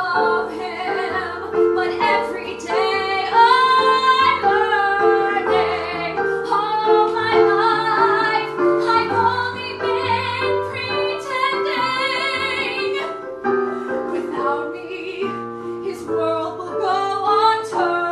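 A woman singing a melodic vocal line over a sustained keyboard accompaniment.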